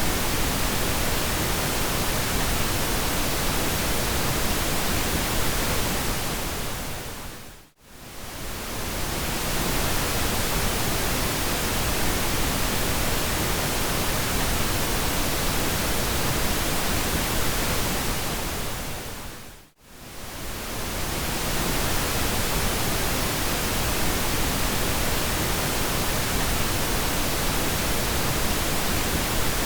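Steady pink noise, an even hiss with no tones or rhythm. It fades briefly to silence and back about eight seconds in and again about twenty seconds in.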